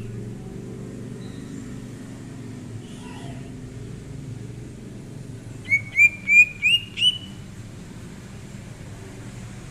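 Cucak ijo (green leafbird) calling, with a quick run of five short upward-sweeping chirps a little past halfway and a few faint notes before it. The chirps sit over a steady low rumble.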